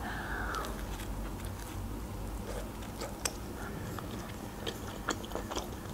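A person chewing a mouthful of homemade pizza, with soft, scattered mouth clicks.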